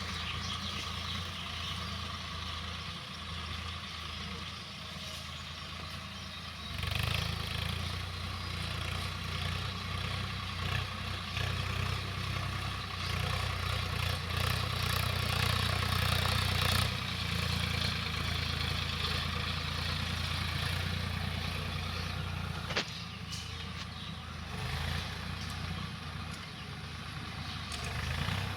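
Swaraj tractor's diesel engine running steadily. It gets louder about a quarter of the way in, holds for about ten seconds, then drops back.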